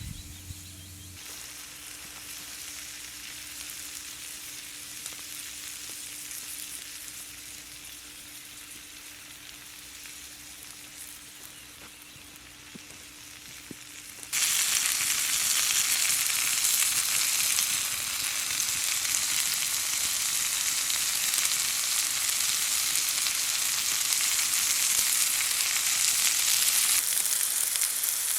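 Food frying in hot oil with a steady sizzle. The sizzle grows abruptly much louder about halfway through.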